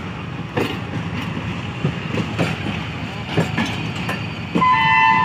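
Train coaches and mail vans rolling past slowly, their wheels clicking over rail joints at uneven intervals above a steady rumble. About four and a half seconds in, a loud steady high-pitched tone starts and holds.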